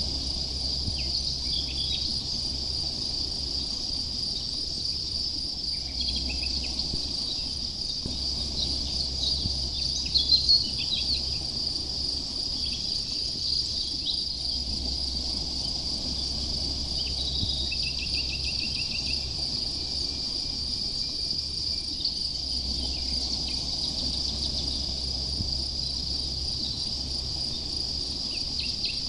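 Insects chirping in a steady, high-pitched, pulsing chorus. Short bird calls come in now and then, with a louder cluster about ten seconds in and a brief trill further on.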